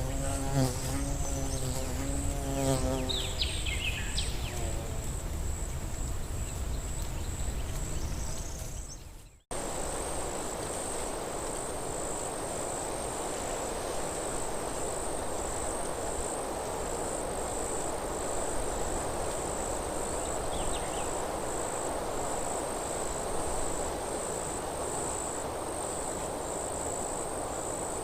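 Forest ambience: an insect buzzes close by and fades out in the first few seconds, with a few bird chirps and a steady high insect trill. The sound cuts out briefly about nine seconds in. After that a high, pulsing insect chirping runs over a steady rush of wind in the trees, with a single short bird chirp later on.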